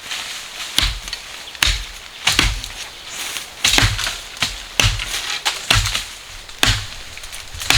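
Wood being chopped with a blade, about one stroke a second, each strike a sharp thud with a splintering crack.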